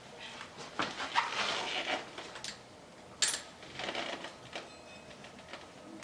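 Small metal parts and tools being handled and set down on a work surface: a run of knocks and scraping, one sharp clink a little after three seconds, then a few lighter knocks.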